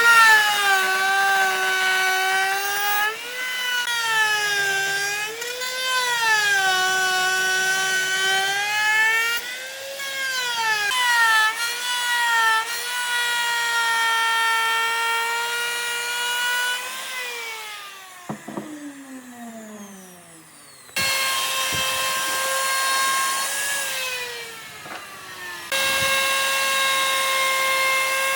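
Electric power tool motor working wood, a high whine whose pitch sags and recovers as it bites under load. Near the middle it spins down with a falling whine, then starts up again and runs on.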